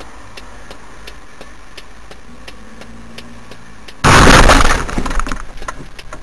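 Car collision heard from inside a car: steady road and engine noise with faint regular ticking, then about four seconds in a sudden loud crash of impact with breaking glass that crackles and rattles away over about a second and a half.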